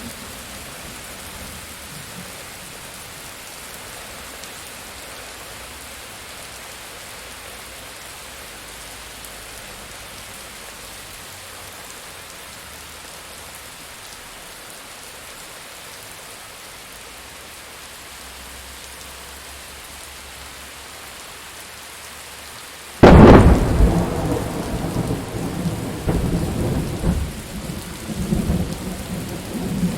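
Steady rain falling. About three quarters of the way through, a sudden loud thunderclap breaks in, then rolls on as uneven rumbling under the rain.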